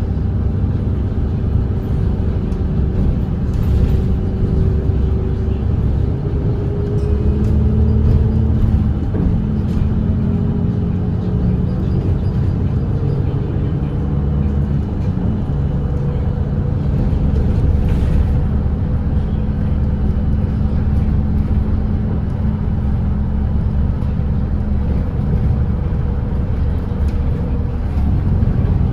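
Volvo B8RLE double-decker bus's diesel engine running steadily at expressway cruising speed, a continuous low drone whose pitch shifts slightly a few times.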